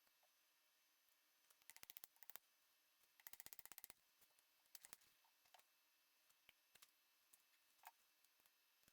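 Faint runs of rapid, evenly spaced clicking: one about two seconds in, a longer one about three and a half seconds in, and a shorter one near five seconds, with scattered single ticks between them over near silence.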